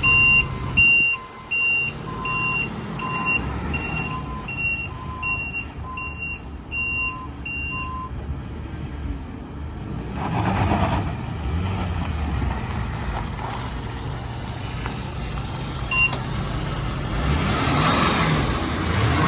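Ford 6.7L Power Stroke V8 turbodiesel in a pickup running, with an electronic warning chime beeping evenly about one and a half times a second for the first eight seconds, then stopping. A few loud knocks come in the first second or so.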